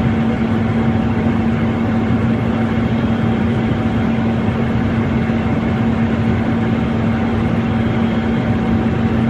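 Steady vehicle engine drone with a constant hum, unchanging in pitch and level.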